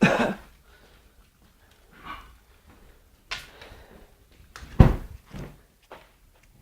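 Scattered knocks and bumps of household objects being handled and set down, the loudest about five seconds in.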